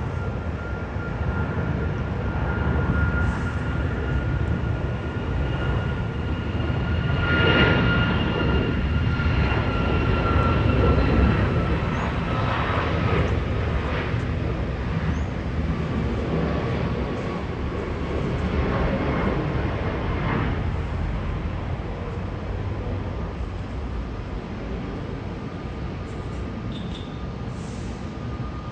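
Jet airliner passing, a rumble with a thin engine whine that slowly falls in pitch; it is loudest about eight to eleven seconds in, then slowly fades.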